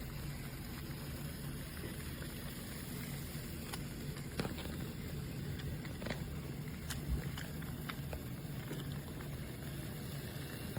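Hape battery-powered toy train engine running along its track: a steady low motor hum, with a few sharp clicks in the middle stretch.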